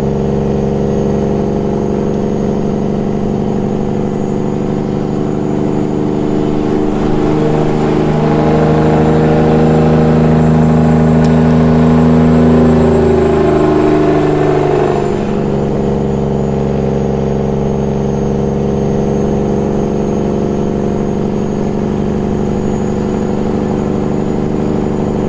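Peterbilt 389 glider's diesel engine on the engine brake (jake brake) while descending a grade, a steady loud rumble. About a quarter of the way in it grows louder with the pitch creeping up, then falls back to the earlier level just past halfway.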